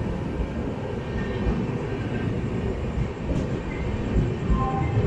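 LHB passenger coaches of an express train rolling past the platform as the train pulls into the station, a steady low rumble of wheels on rail.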